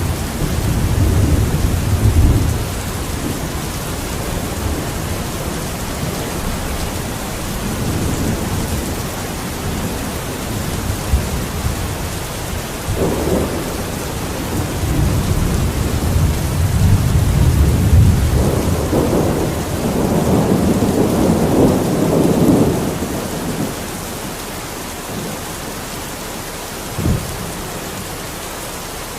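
Steady rain falling, with long low rumbles of rolling thunder at the start and again about halfway in, building to its loudest before fading, and a short low thump near the end.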